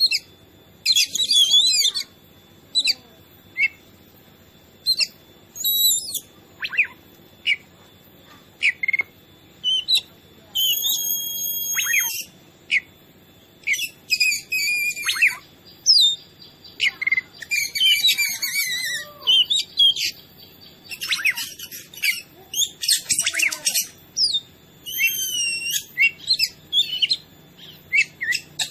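Oriental magpie-robin singing vigorously: a rapid run of varied whistles, trills and chattering phrases with quick pitch sweeps, broken by short pauses.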